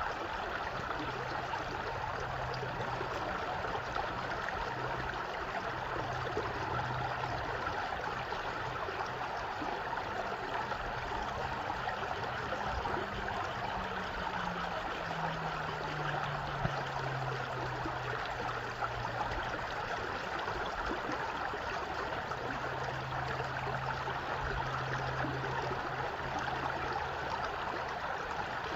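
Stream water flowing and splashing, a steady, even rush. A faint low hum sits underneath; it slides down in pitch around the middle and holds steady again near the end.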